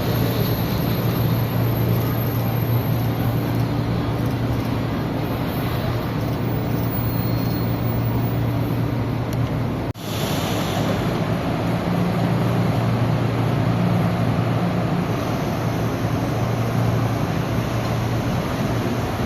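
Electric metro train running, a steady rumble with a low hum. The sound breaks off abruptly about ten seconds in and resumes at once.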